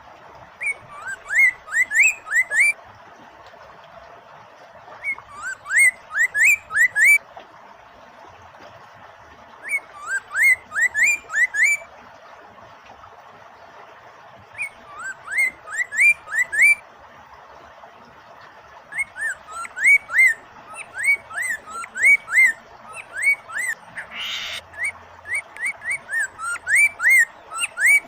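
Poksay mandarin, a laughingthrush, singing loud phrases of quick rising whistled notes, each phrase about two seconds long with short pauses between, over a steady sound of flowing water. A brief noisy rush cuts in a little before the end.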